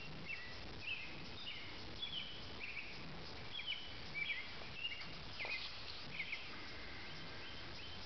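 Small birds chirping in short, repeated calls, roughly one or two a second, over a steady outdoor background hiss.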